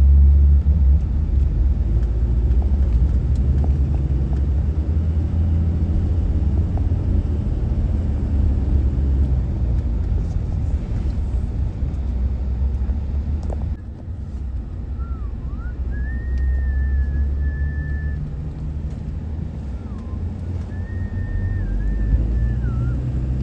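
Car driving, a loud steady low rumble of engine and road noise. About halfway through the level drops briefly, and then a thin, wavering whistle comes in over the rumble, held in long notes.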